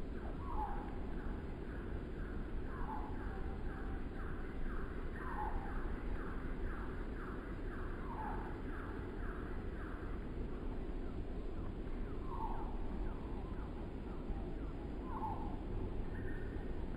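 Steady low wind rumble, with a bird repeating a short falling call every two to three seconds. A faster series of quick notes runs through the first half.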